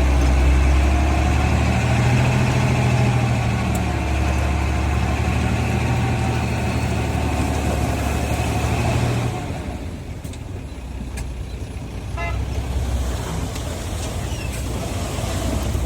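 Heavy diesel earthmoving machinery, a bulldozer or dump truck, running steadily. The engine sound drops back to a quieter run about nine and a half seconds in, and there is a brief burst of quick beeps a couple of seconds later.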